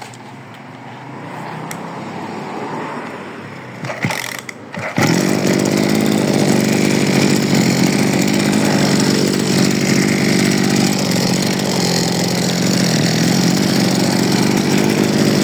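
Small Japanese brush cutter engine starting about five seconds in, after a few short knocks, then running steadily and loudly: freshly rebuilt and starting readily.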